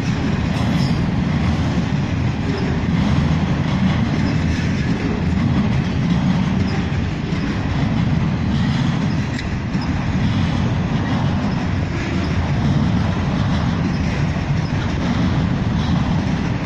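CSX autorack freight cars rolling past close by: a steady, loud low rumble of steel wheels on rail.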